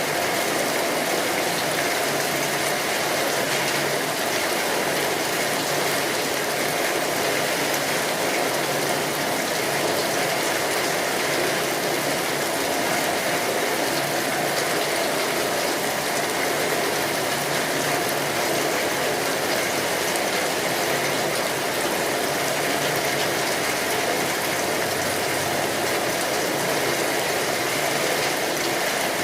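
Steady rain, a dense, even patter of drops that holds at one level throughout.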